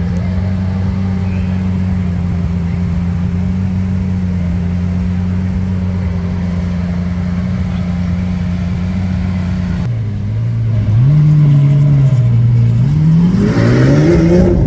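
Lamborghini Aventador's V12 engine idling with a steady, even note, then about ten seconds in the revs lift and waver, and near the end the note climbs as the engine is revved.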